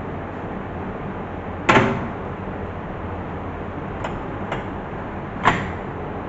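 Two sharp knocks about four seconds apart, each with a short ringing tail, and two lighter clicks between them, over a steady background hiss.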